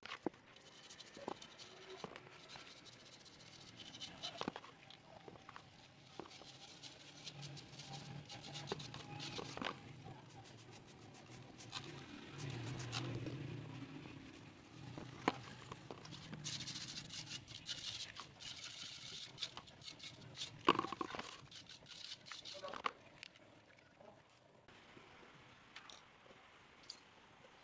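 Scattered scraping, light clicks and small knocks of hand work on small metal parts, with one sharper knock about three-quarters of the way through.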